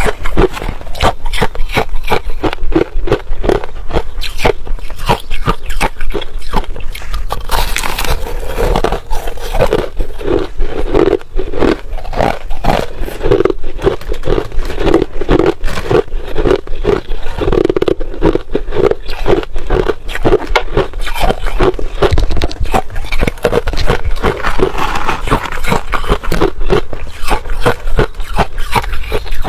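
Ice being bitten and chewed close to the microphone: a dense run of rapid, crisp crunches, with a lower pulsing chewing sound from about ten to twenty seconds in.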